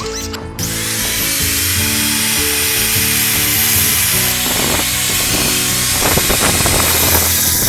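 Background music with a steady, loud hissing tool noise, such as a grinder or an air gun at work, that starts about half a second in and cuts off near the end, with irregular scraping in its second half.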